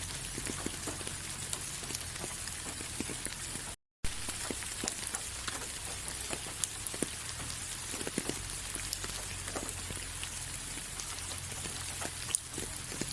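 Steady rain falling, with individual drops heard as sharp ticks over the hiss. The sound cuts out completely for a split second about four seconds in.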